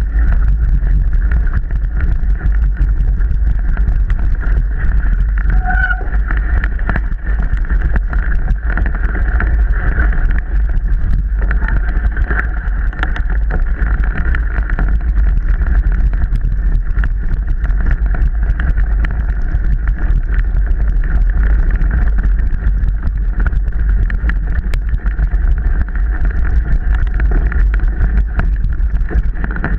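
Wind buffeting the microphone of a camera on a moving mountain bike, over a constant rattle and clatter of the bike running over rough, wet trail.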